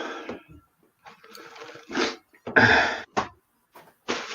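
A person's short breathy coughs and gasps, several in a row.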